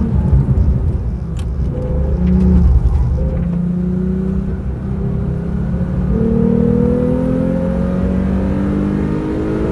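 Porsche 911 Carrera T's twin-turbo flat-six heard from inside the car, held at a lower, steady note while the car is slowed for a corner, then rising steadily in pitch from about six seconds in as it accelerates hard out of the turn.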